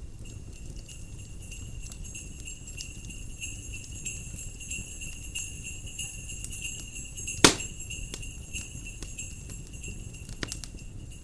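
Jingle bells ringing steadily from about a second in until the end, over a crackling fire with a low rumble, and one sharp loud pop from the fire about seven and a half seconds in.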